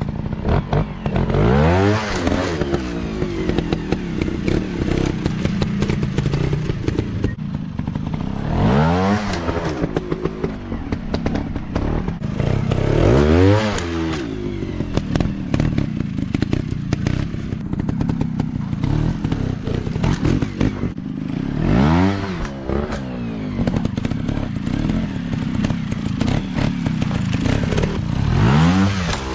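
Dirt bike engines running, the throttle blipped up and back down about five times, with frequent knocks and clatter over the engine sound.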